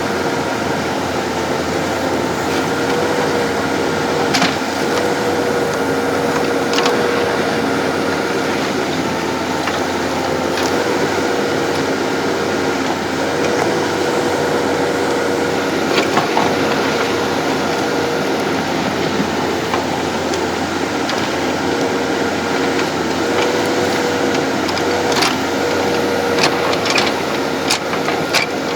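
JCB backhoe loader running steadily, a constant engine note with a slightly wavering whine, and occasional sharp clanks, several in quick succession near the end.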